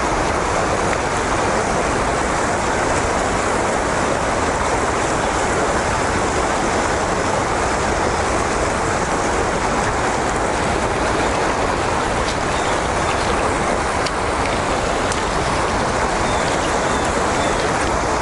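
Steady rush of fast river water below a lock and dam, an even, unbroken noise.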